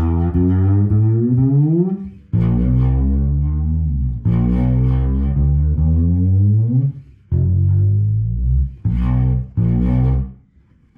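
Vintage fretless Fender Precision bass played unplugged or through an amp: about six sustained notes, several sliding upward in pitch, with string buzz around the G. The buzz comes from a fingerboard gouged by years of roundwound strings.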